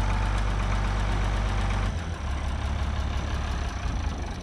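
International loader tractor's engine running steadily, its note dropping and getting a little quieter about two seconds in as the throttle comes back after the lift.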